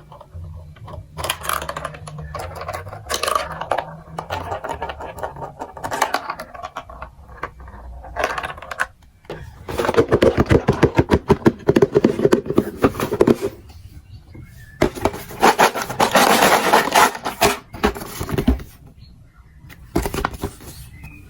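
Plastic marble run building blocks and marbles clicking and clattering, with two long stretches of dense, rapid clicking, one about halfway through and another a few seconds later.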